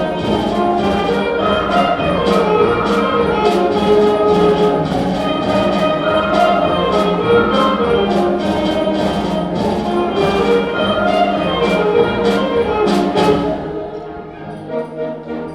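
High school band playing live, brass in front, over a steady percussion beat of about two strikes a second. Near the end the percussion stops and the band holds softer sustained chords.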